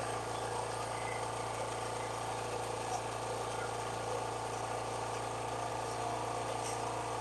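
Backup generator engine running steadily, a constant hum.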